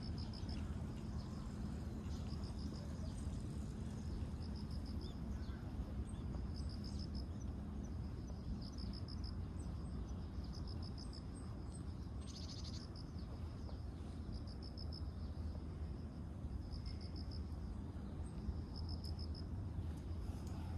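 Insects chirping in short pulsed trains, one about every second, over a steady low background rumble.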